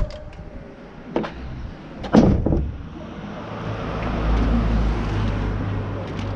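A few clicks, then a loud rustling clatter of rubbish being handled about two seconds in. After that a road vehicle goes by with a steady low rumble that swells and holds for a few seconds.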